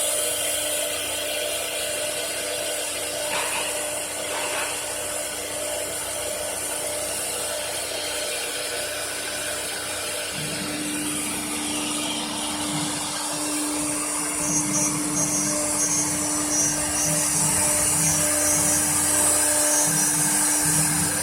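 CNC wood router's spindle running with a steady whine and hiss while the machine works.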